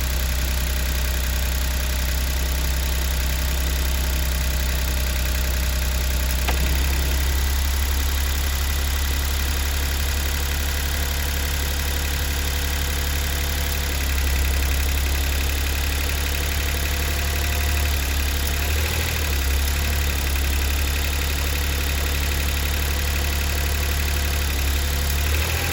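Daihatsu Atrai Wagon's 660 cc three-cylinder engine idling steadily on 15W-50 motorcycle oil, an engine of over 110,000 km that had been making an abnormal noise.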